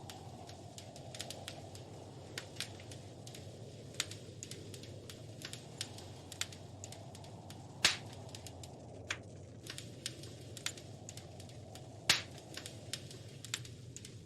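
Wood fire crackling in a fireplace: a steady low rushing of the flames with irregular sharp pops and snaps, the loudest about 8 and 12 seconds in.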